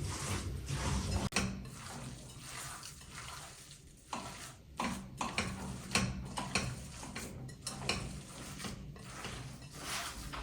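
Kitchen utensils and dishes clinking, scraping and knocking lightly at irregular moments, as food is stirred and handled.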